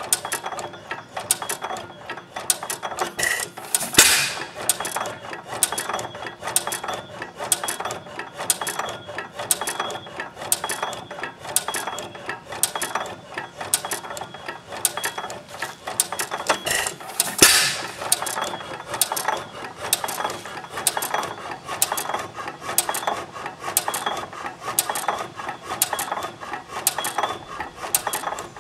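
10 hp John Lauson single-cylinder hit-and-miss engine running, with a rapid, steady clicking of its valve gear and governor. Two louder bangs come about 4 seconds in and again about 17 seconds in.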